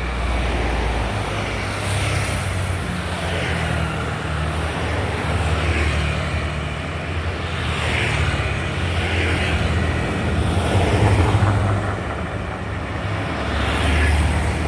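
Road traffic: a continuous low engine rumble with several vehicles passing in turn, their engine and tyre noise swelling and fading every couple of seconds.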